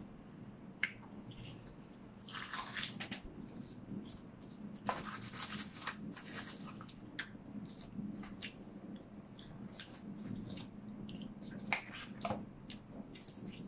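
Close-miked eating sounds: soft chewing with small wet mouth clicks. Short rustling bursts come twice, a couple of seconds in and again about five seconds in, as food is picked from plastic trays.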